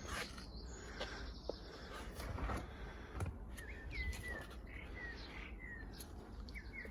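Faint birdsong: a songbird repeating short chirping notes in quick succession from about three seconds in, over low outdoor background noise.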